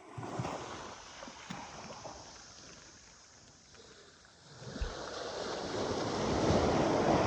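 Sea waves washing in. One surge comes at the start and fades, then a louder one builds from about two-thirds of the way in.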